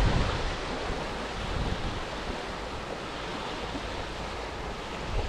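Steady rushing outdoor noise with a strong low rumble, setting in just after a cut and holding level throughout.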